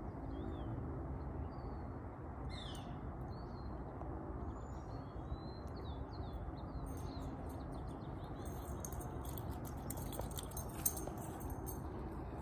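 Small songbirds chirping over a steady low background rumble, followed by a run of faint clicks and crackles with one sharper tick near the end.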